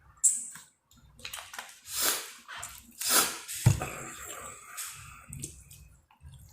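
Close-up wet eating sounds of chicken, lobster and shrimp alfredo: slurping and chewing in swells. There is a sharp click near the start and a low knock a little past halfway.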